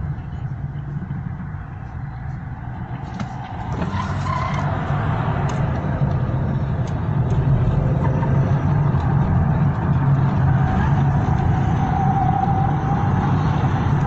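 Motor vehicle engine and road noise: a steady low drone that grows louder about four seconds in.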